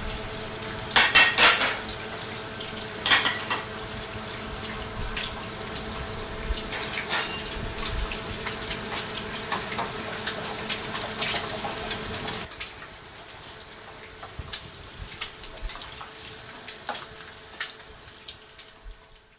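Eggs and sliced potatoes frying in oil in pans on gas burners, a steady sizzle, with pans and utensils clattering now and then. A faint steady hum runs underneath, and the lower part of the sound drops away about two-thirds of the way through.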